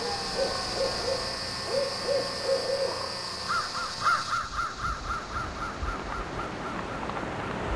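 A bird calling in quick repeated notes: a run of lower notes in the first few seconds, then a longer run of higher notes, about four a second, that fades out.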